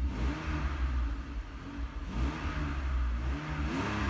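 2001 BMW Z3's engine running, its revs rising and falling about three times, with no whistle from the newly replaced air intake boot.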